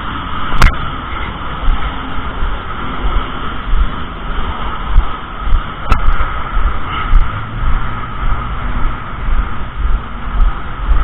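Wind buffeting the microphone in uneven low gusts over a steady rushing hiss, with two sharp clicks, about half a second in and again about six seconds in.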